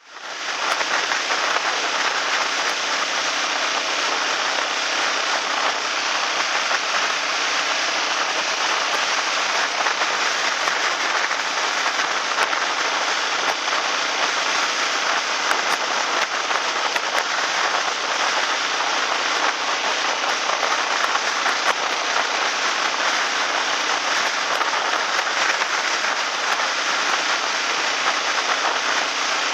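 Floodwater rushing in a river swollen and muddy after a typhoon: a steady, even hiss of water.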